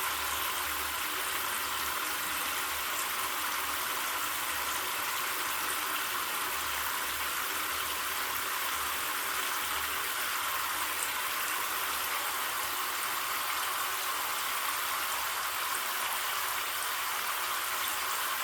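Hot tap water pouring steadily into a plastic mop bucket that is filling up with soaking washing-machine drawer parts.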